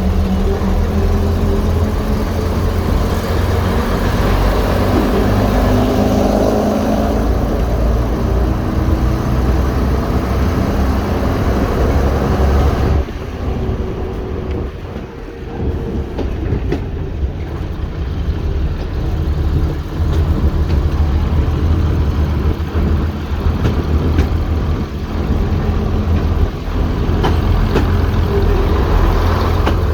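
Heritage diesel multiple unit under way, its diesel engines droning with the rumble of wheels on the rails. About 13 seconds in the sound eases off for a few seconds, then builds again, with short rail-joint clicks in the later part.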